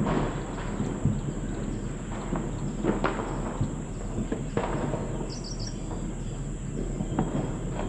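Outdoor nature ambience: a low rumbling background with a few sudden swells, a steady high-pitched hiss, and a short burst of bird chirps about five seconds in.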